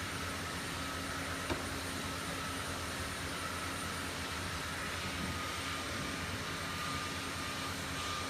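Steady mechanical drone with a faint high whine running through it, and a single click about a second and a half in.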